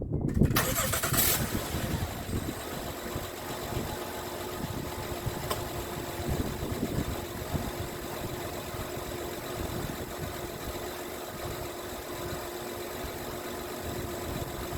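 A 2013 Honda Odyssey's 3.5-litre V6 cranks and fires, flaring loudly for a moment, then settles into a steady idle, freshly filled with new oil just after an oil change. One short click sounds about five and a half seconds in.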